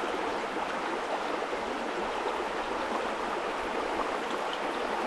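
River water running steadily, a constant even flow sound.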